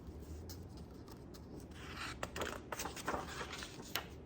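Rustle and soft clicks of a hardcover picture book's paper pages being handled and turned, busiest from about two seconds in.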